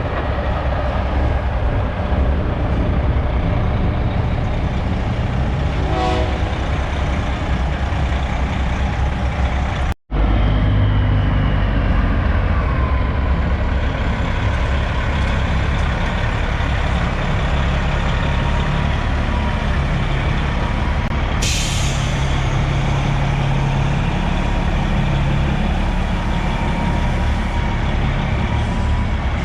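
Semi trucks' diesel engines running as they roll in at low speed, with a short air-brake hiss about two-thirds of the way through. The sound breaks off for an instant about a third of the way in.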